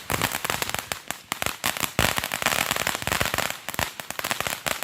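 Consumer fireworks going off in a fast, irregular run of sharp crackling pops, many a second, with no pause.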